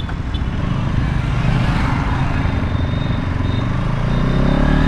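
Bajaj Pulsar NS200's 200 cc single-cylinder engine running while riding, under a rush of wind and road noise; near the end the engine note rises in pitch as the bike accelerates.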